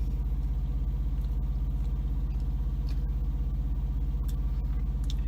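Semi truck's diesel engine idling, heard from inside the cab: a steady low hum with a fast even pulse, and a few faint clicks on top.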